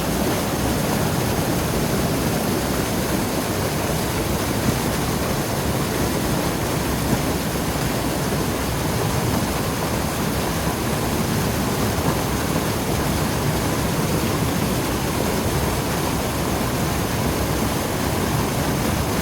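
Creek waterfall: water falling and rushing in a steady, unbroken roar, strongest in the low range.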